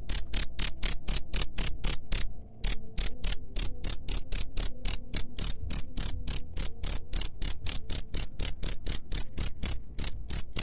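Cricket chirping in a fast, even series of short high-pitched chirps, about five a second, with a brief half-second break about two seconds in; the chirping stops abruptly near the end.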